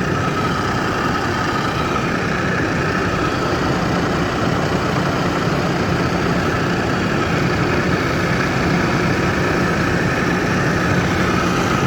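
Gear-driven Johansson toolroom drill press running under power, a steady machine hum with a constant whine from the gear head.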